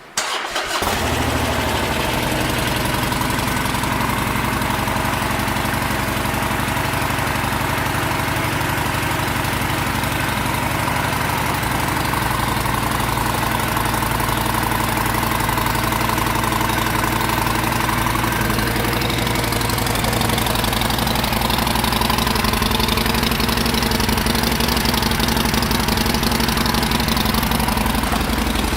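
2016 Harley-Davidson Sportster Forty-Eight's air-cooled 1200 cc V-twin starting and then idling steadily.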